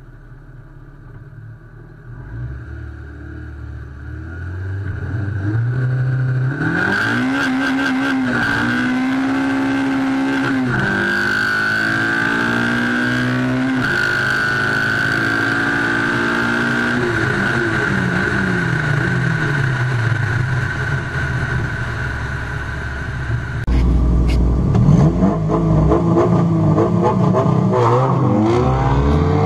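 Naturally aspirated Honda B20 VTEC four-cylinder in a Civic EF hatch pulling hard at full throttle, its note climbing and dropping at each gear change several times, then falling away as it backs off. About 24 s in, a cut to a louder, deeper engine sound that revs up steeply near the end.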